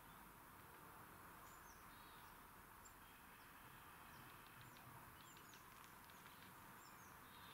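Faint birdsong: scattered short chirps over a soft steady hiss.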